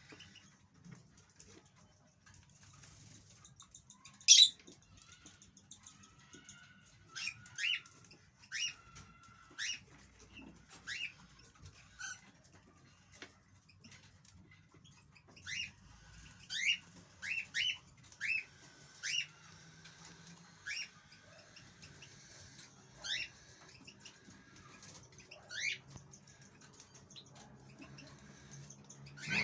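European goldfinch calling: short, sharp sweeping notes repeated at irregular intervals, with faint twittering between them.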